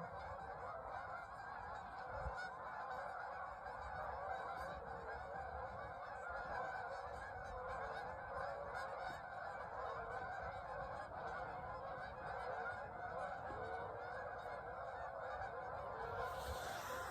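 A large flock of geese honking, many calls overlapping into one continuous clamour. About a second before the end a brief hiss joins in.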